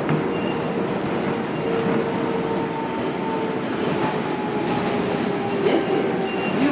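New York City subway train running, heard from inside the car: a steady rumble with a faint steady whine.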